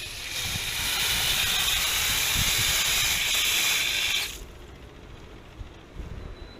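A steady, loud hiss of rushing flow that cuts off suddenly about four seconds in.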